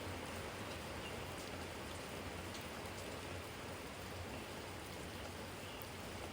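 Steady rain falling in a yard, an even hiss with a few distinct drops ticking on a garden jar.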